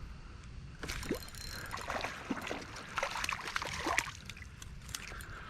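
Water splashing and sloshing beside a kayak in irregular bursts for about three seconds, starting about a second in.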